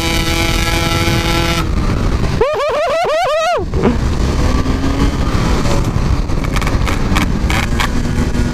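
Yamaha RX-King two-stroke single-cylinder motorcycle engine under way, holding a steady note, then revved up and down sharply several times about two and a half seconds in. After that it settles into rougher, lower running.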